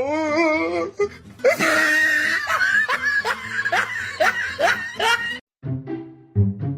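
A wavering pitched cry, then a run of hearty laughter in short falling bursts, over music; a steady beat comes in near the end.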